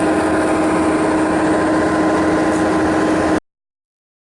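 A river passenger launch's engine running steadily with a constant hum, heard from on board. It cuts off suddenly near the end.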